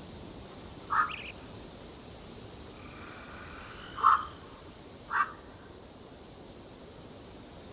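Bird calls in a forest: three short, loud calls about a second in, four seconds in and five seconds in, with fainter, higher calls in between, over a steady background hiss.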